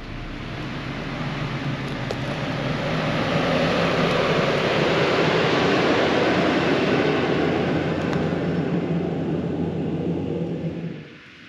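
A passing engine, swelling over several seconds into a loud, even rush with a low hum under it, then cutting off suddenly near the end.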